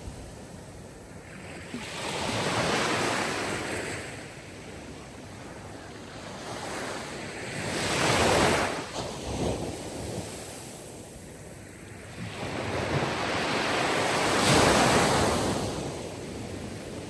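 Sea surf: waves washing in, swelling and fading in three surges about six seconds apart.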